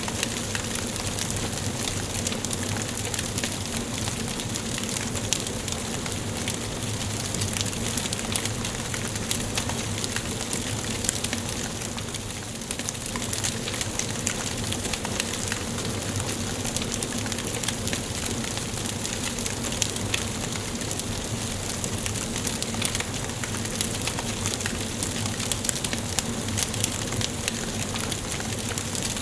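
Wood fire crackling in a fireplace: a steady hiss dotted with many small, sharp pops and snaps.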